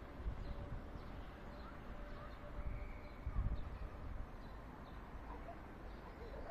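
Wind rumbling on the microphone, with faint, scattered chirps of small birds.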